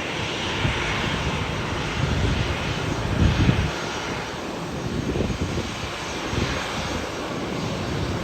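Cessna Citation III business jet landing, its two TFE731 turbofans giving a steady jet noise with a low rumble that swells and fades several times.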